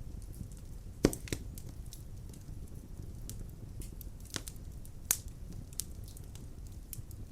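Wood fire burning in a fireplace: irregular sharp crackles and pops, the loudest about a second in, over a steady low rumble of the flames.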